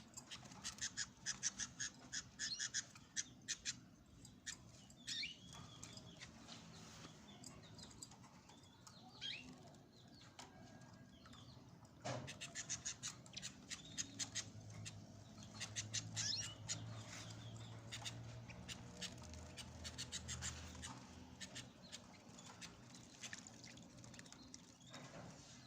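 Canaries and goldfinches bathing: several bursts of rapid wing-fluttering and splashing, with a few short chirps between them.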